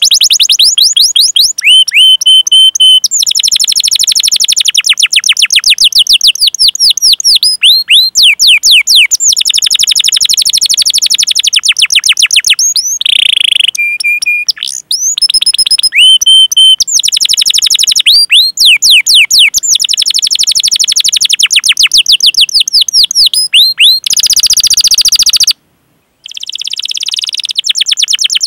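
Domestic canary singing loudly in fast rolls of repeated sweeping chirps, broken by a few short steady whistled notes, with the 'cuit cuit' calls of a long rolling song. The song breaks off for about half a second near the end, then resumes.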